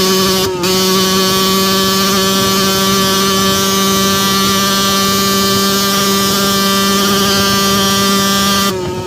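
2002 Yamaha YZ125's 125cc single-cylinder two-stroke engine running at steady high revs, with a brief cut in the sound about half a second in. Near the end the throttle eases off and the pitch sags slightly.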